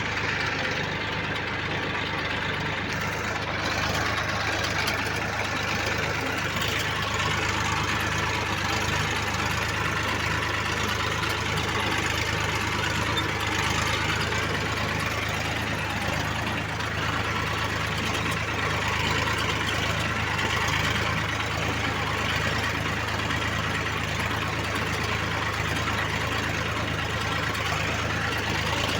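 Sonalika 740 DI tractor's diesel engine running steadily.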